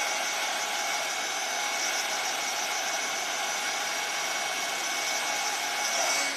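Handheld electric hot-air drying tool blowing steadily, a loud even whoosh with a faint steady whine, drying the paint on a small art card.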